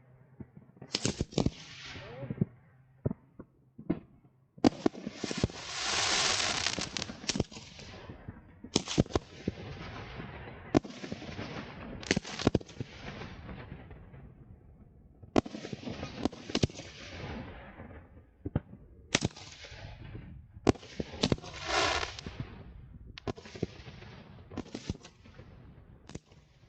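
Fireworks display: a long run of sharp bangs from shells bursting, several close together, each trailing off in a rumbling echo. There are longer crackling, hissing bursts about five seconds in and again near the end.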